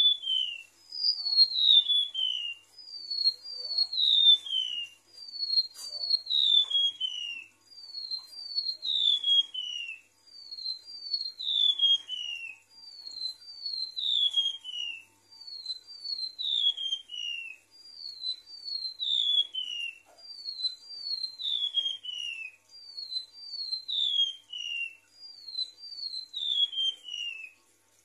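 Remetuk laut (mangrove whistler) singing: a short clear note followed by a long whistle that falls in pitch, the phrase repeated about every two and a half seconds.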